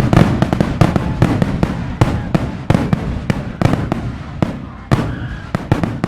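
Fireworks going off: a rapid, irregular string of sharp bangs and crackles over a rumbling wash, thinning to a few spaced bangs as the barrage dies down near the end.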